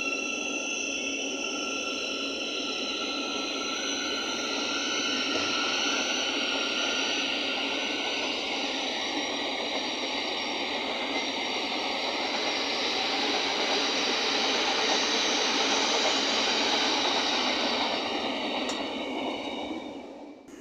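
Thameslink Class 700 electric multiple unit moving through the station: wheels running on the rails under a steady electric motor whine in several high tones. It grows louder and then drops away sharply near the end.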